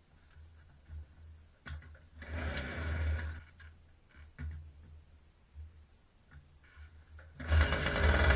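Babetta 215 moped's small two-stroke engine being cold-started in frost. There are a few clicks and a brief sputter about two seconds in, then the engine catches near the end and keeps running loudly.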